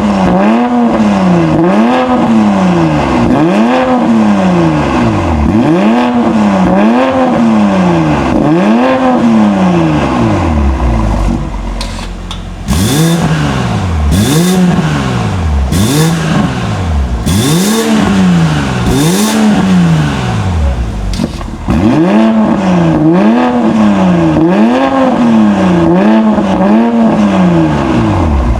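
BMW 540i's turbocharged B58 inline-six being revved again and again through a 3-inch catback exhaust with a high-flow resonator. Each blip rises and falls in pitch about once every second and a half. Through the middle stretch each rev ends with a short, sharp burst of noise.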